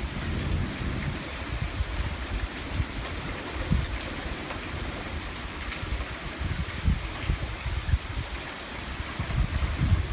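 Heavy rain pouring and pattering on surfaces, with low gusty rumbles of wind on the microphone.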